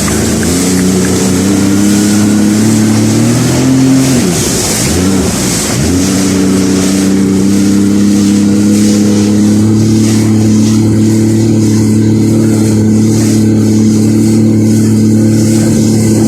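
Jet ski engine running at speed, its pitch dropping sharply about four to five seconds in, then climbing back and holding steady, over a rushing hiss.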